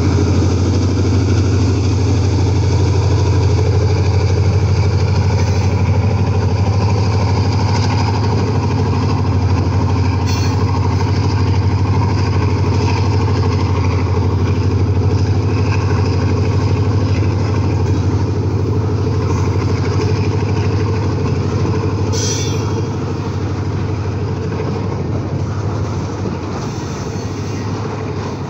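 Diesel locomotive of a departing coal freight train running past with a steady low drone, followed by a long string of coal hopper wagons rolling by on the rails. The drone fades slowly over the last few seconds as the locomotive pulls away.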